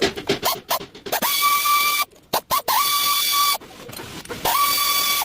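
Chevrolet Blazer's water pump squealing in repeated bursts just under a second long, about every one and a half seconds. Each squeal rises quickly to a steady high pitch over a hiss, then cuts off. This is the pump noise that the replacement is meant to fix.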